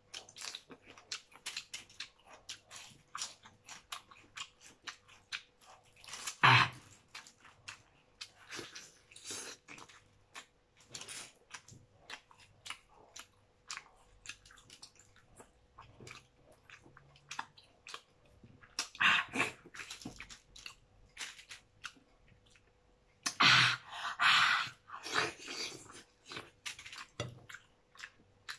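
Close-up chewing and crunching of spicy crab and lobster, with frequent small wet mouth clicks and smacks. A few louder mouth noises stand out, the longest near the end.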